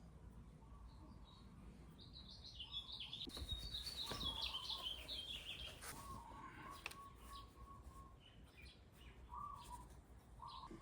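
Faint songbird chirping and twittering, busiest in the first half, with a few light clicks.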